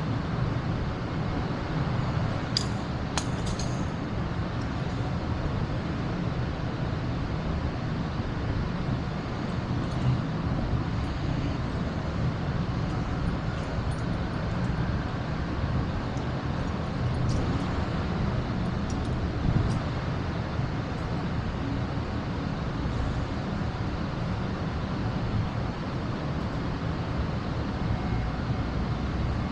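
Vehicle engines running as a steady low rumble, with a few sharp clicks about three seconds in.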